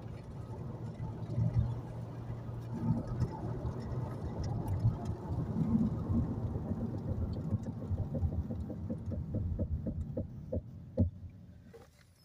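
A car rolling and braking with a low rumble, then a regular brake noise repeating about once per wheel turn that slows as the car comes to a stop, ending with one louder knock. It is a strange brake noise whose cause is not given.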